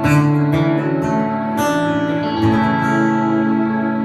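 Acoustic guitar strumming the closing chords of a song, with fresh strums about one and a half and two and a half seconds in, the chords left to ring.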